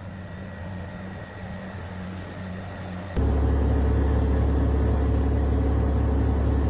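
Steady low running of a vehicle engine. About three seconds in, it cuts abruptly to a much louder, deeper engine rumble from another clip.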